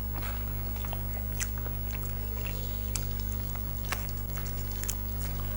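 People chewing and biting into pizza, with scattered short mouth clicks and smacks. A steady low electrical hum runs underneath.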